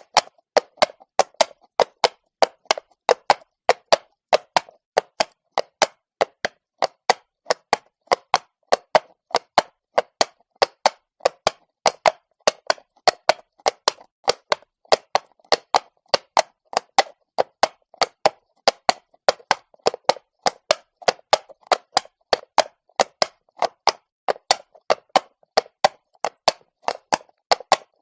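Horse hooves walking on cobblestone: a steady, even rhythm of sharp clops, about two to three a second.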